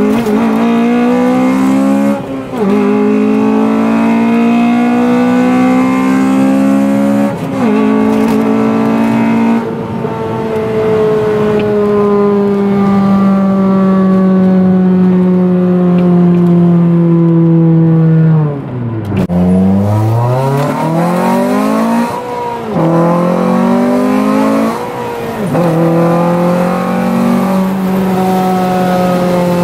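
Honda Civic Si's 2.0-litre four-cylinder, fitted with aftermarket headers and downpipe, revving hard through the gears, heard from inside the cabin. The pitch climbs in each gear and drops at each shift; about nineteen seconds in the revs fall away steeply before it pulls and climbs again.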